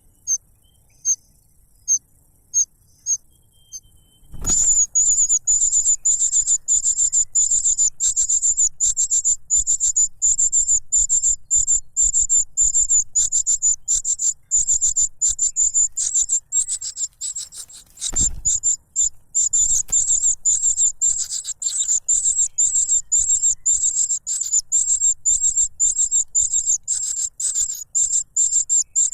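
Cuckoo chick begging for food: single high chirps about once a second, then from about four seconds in a rapid, unbroken run of high-pitched chirps. Two dull thumps, one as the fast chirping starts and one about halfway through.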